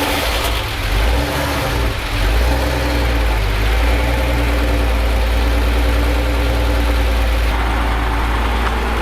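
Porsche 993's air-cooled flat-six idling just after a cold start, a little uneven for the first couple of seconds, then running steadily.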